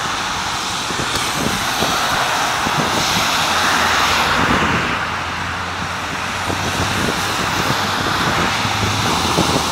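Steady hiss of rain and traffic on a wet road, with a low vehicle engine hum that grows stronger in the second half.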